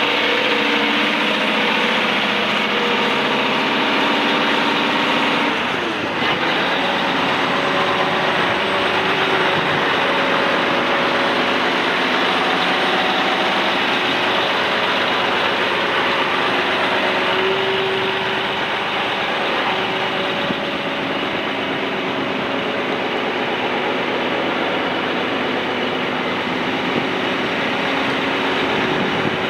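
2018 John Deere 9570RX tractor's diesel engine idling steadily.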